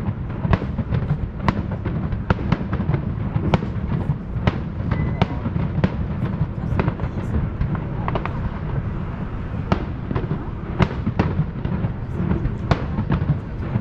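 Fireworks show going off: an irregular run of sharp cracks and bangs, about one or two a second, over a continuous low rumble.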